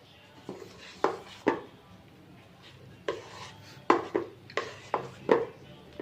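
Kitchen utensils clinking and knocking against dishes and bowls, about ten sharp, irregular strikes.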